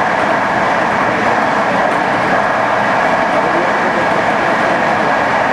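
Passenger train running along the line, a steady, even noise of wheels on rail and the moving carriage.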